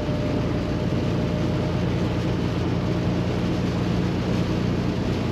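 Steady drone of a semi truck's Paccar MX13 diesel engine heard from inside the cab, with road and wind noise, even and unchanging.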